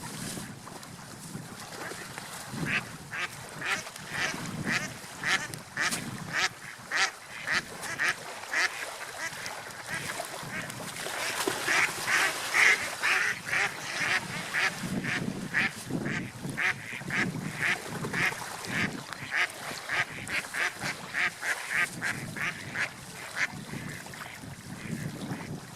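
Ducks quacking over and over, about two short calls a second, growing louder and denser midway, over a low background rush.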